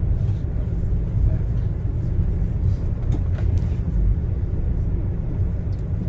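Steady low rumble of a passenger rail car running along the track, heard from inside the car.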